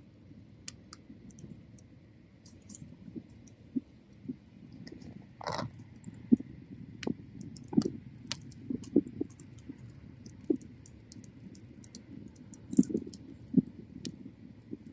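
Wood bonfire crackling: irregular sharp pops and snaps over a low, steady rumble of burning. There is a louder, longer snap about five and a half seconds in.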